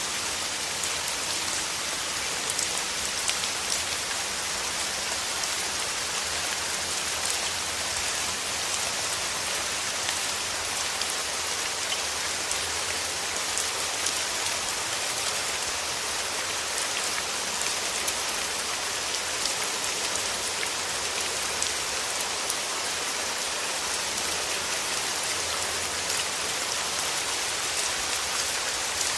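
Steady rain falling: an even hiss of dense raindrops pattering on a surface, with fine individual drop ticks, unchanging throughout.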